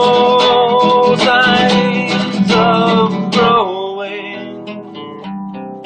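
Acoustic guitar music: strummed chords under a held, wavering melody line for the first three and a half seconds, then quieter picked guitar notes.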